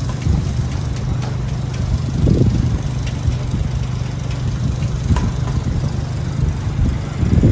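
City traffic rumble with a steady low engine hum, and wind gusts buffeting the microphone about two seconds in and again near the end.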